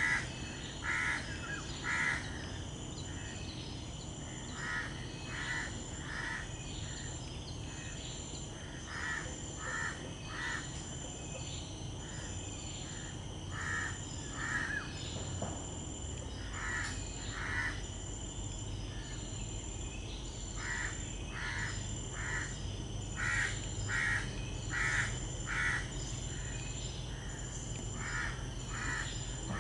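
Bird calling in short notes, in groups of two or three every few seconds, over a high, evenly pulsing insect drone and a low background rumble.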